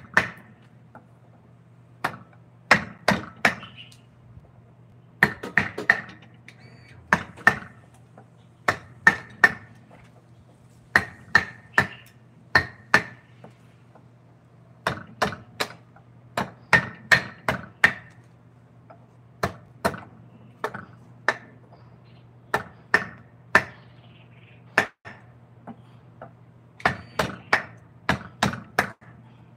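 Mallet striking a carving chisel into wood: sharp blows in quick groups of two to four, a group every second or two, each blow with a short ring.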